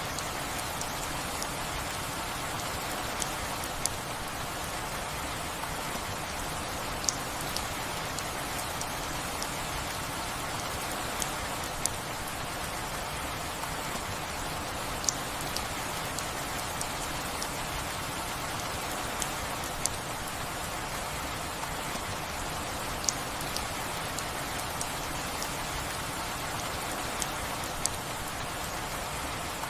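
Steady rain falling, an even hiss, with single sharp drop clicks every few seconds, often two close together.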